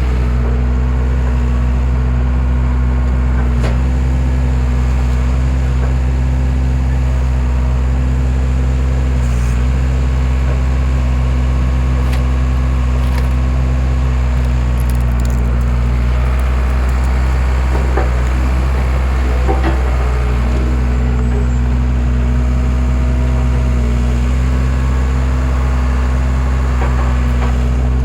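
Skid steer engine running steadily while it powers a hydraulic wood splitter, its note dipping slightly now and then under load, with a few sharp knocks and cracks of wood.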